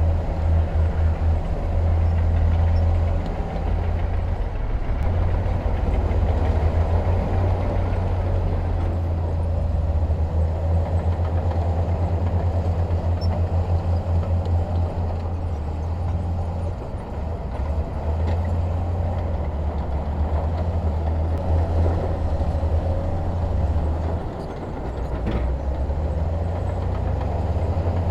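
Heavy diesel engine of earthmoving machinery running steadily with a deep, rapidly pulsing rumble. It eases off briefly twice.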